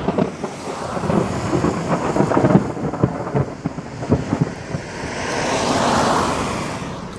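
Thunderstorm: thunder crackling and rumbling with rain falling, then a rushing swell that builds to a peak about six seconds in and fades.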